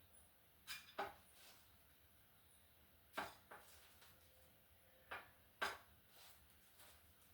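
Light taps on a plate as dried silver fish (omena) are picked out one by one and dropped onto it: three pairs of short clicks over otherwise near silence.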